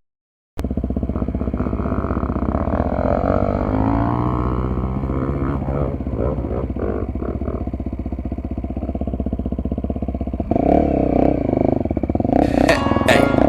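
Dirt bike engine running over uneven trail, its pitch rising and falling with the throttle; it starts abruptly about half a second in after a brief gap. Music comes in near the end.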